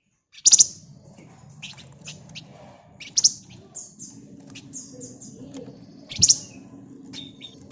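Javan fulvetta (flamboyan) singing: three loud, sharp, high call bursts about three seconds apart, with quicker high chirps between them.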